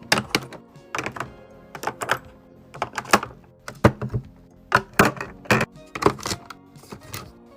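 Irregular knocks and clacks of containers and items being set down and arranged while restocking, about a dozen in quick succession, over background music.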